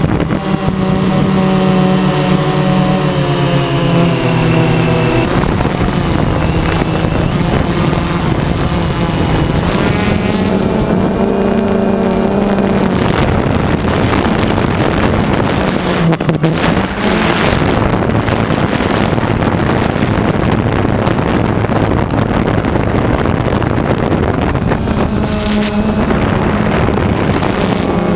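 DJI Phantom 2 quadcopter's four motors and propellers buzzing in flight, the pitch of the whine stepping up and down as the throttle changes, with wind noise on the microphone.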